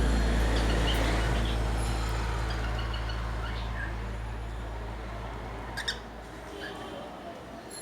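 A few short cockatiel chirps over a low background-music drone that fades out, with one sharp click about six seconds in.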